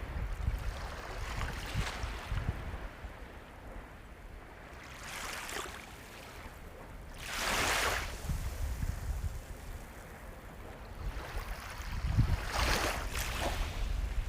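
Ocean waves breaking and washing onto the shore. Each wave is a hiss that swells and fades, the loudest about halfway through and another near the end, over a low rumble of surf.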